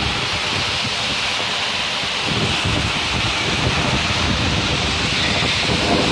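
Strong storm wind blowing steadily, buffeting the microphone with a low rumble under a rushing hiss.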